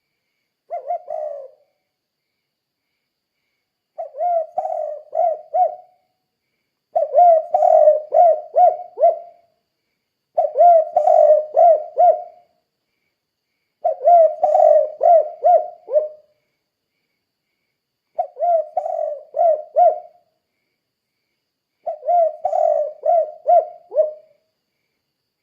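Spotted dove cooing in repeated phrases of several quick coo notes each. There are seven phrases, one every three to four seconds, with silence between; the first phrase is short.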